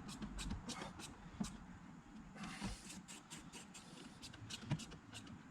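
Faint, irregular clicks of a Torx driver turning the side mirror's mounting screws snug, several a second, with a brief hiss about halfway through.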